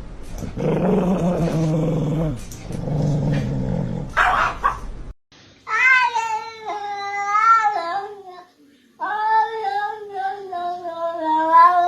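Cat yowling: a low, drawn-out growling yowl in the first few seconds, then two long, wavering yowls of about three seconds each.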